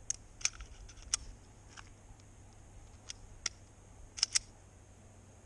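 Light metallic clicks and clacks of a handgun being unloaded after the magazine is dropped: about eight sharp clicks at irregular spacing, with a quick pair near the end.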